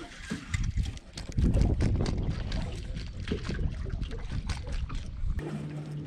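Strong wind buffeting the microphone in uneven gusts, with water slapping and trickling against a small boat's hull. Near the end a steady low hum starts.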